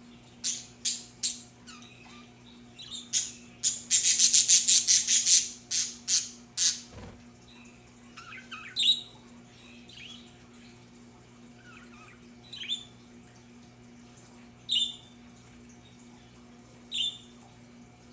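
Budgerigars calling: a string of loud, harsh squawks in the first seven seconds, including a fast run of about a dozen calls in quick succession, then softer scattered chirps and short warbles.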